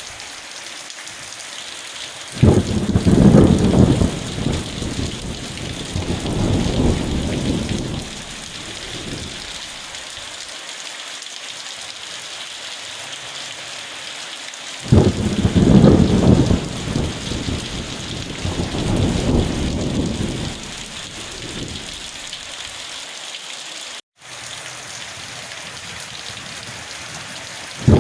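Steady rain hissing, with two rolls of thunder that each break in suddenly, about two seconds in and again about fifteen seconds in, rumbling for several seconds before dying away. The sound cuts out for an instant near the end.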